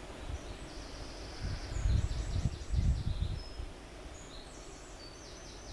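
Outdoor ambience: small birds singing high, quick trilling phrases, with low buffeting gusts of wind on the microphone that are loudest about two and three seconds in.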